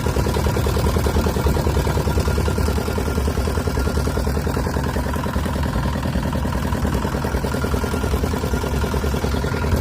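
Engine of a motorised country boat running steadily, with an even, rapid beat.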